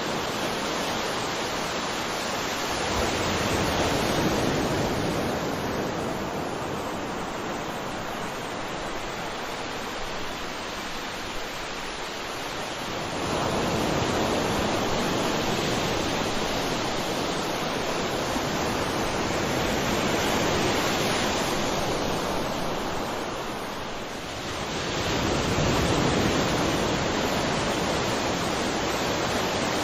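Sea waves breaking and washing on a shore: a continuous rush of surf that swells and eases several times as each wave comes in and draws back.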